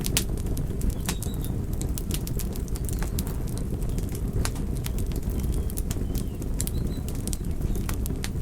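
Wood fire crackling: irregular sharp pops and snaps over a steady low rumble of the burning.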